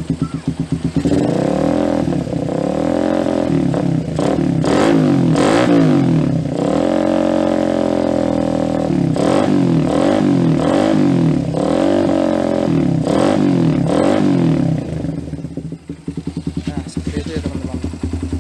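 Suzuki Satria F150's 150 cc single-cylinder four-stroke engine, with a Lone Rider aftermarket exhaust, revved again and again in quick throttle blips from idle, with one longer high rev in the middle, then settling back to idle near the end. The engine is a mild tune-up: oversize 100 piston and ported, polished head.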